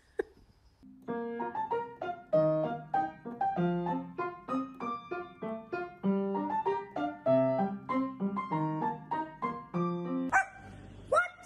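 Piano playing a melody of single struck notes, each ringing and fading. Near the end the notes stop and a short rising squeak follows.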